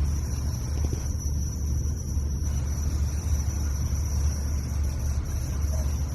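Steady low hum of room background noise, with a faint constant high-pitched whine above it.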